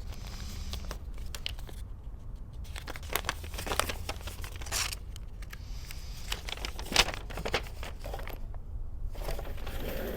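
Parts packaging being cut or torn open and handled, crinkling and tearing in irregular rustles with small clicks, over a steady low hum.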